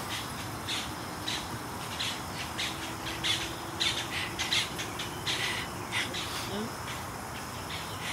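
Bird calling over and over in short, harsh notes, two or three a second, stopping a little after six seconds in.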